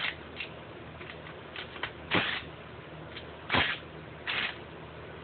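Four short, sharp metallic clacks from a tool and socket working the 14 mm cylinder-head nuts loose on a motorized bicycle's engine.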